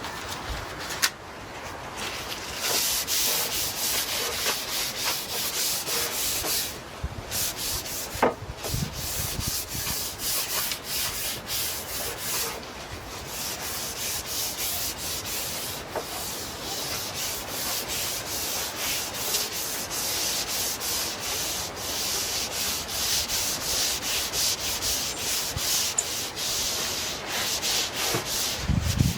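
Bristle brush stroking oil onto larch planks: quick repeated scratchy strokes of bristles over the wood, with a few short pauses and an occasional light knock.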